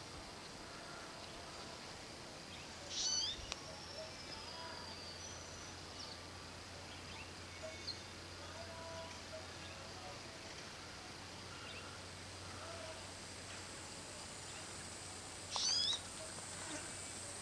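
Two loud, short bird calls, high and zigzagging in pitch, about three seconds in and again near the end, over scattered faint chirps of other garden birds and a low steady hum. A steady high insect buzz comes in about two-thirds of the way through.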